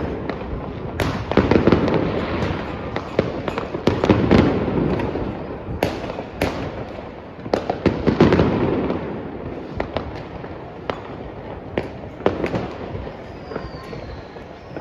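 Fireworks going off in quick succession: sharp bangs and crackling over a continuous rumble of distant explosions, in waves that thin out towards the end, with a faint falling whistle near the end.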